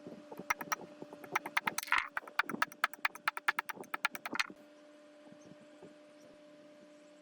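Hand tools working on metal parts: groups of sharp clicks, then a quick, even run of taps that stops about four and a half seconds in, over a faint steady hum.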